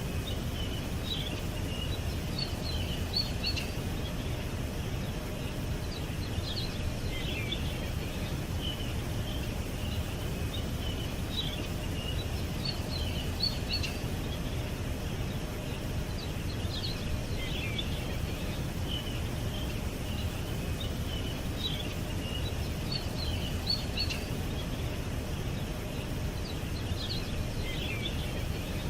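Small birds chirping and twittering in short, high flurries that recur about every five seconds, over a steady low rumble of background noise.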